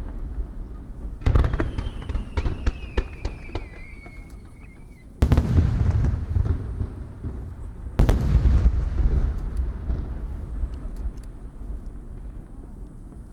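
Aerial fireworks shells bursting. A boom about a second in is followed by a rapid string of sharp crackling pops and a whistle falling in pitch. Then come two heavy booms, at about five and eight seconds, each rolling off in a long echoing rumble.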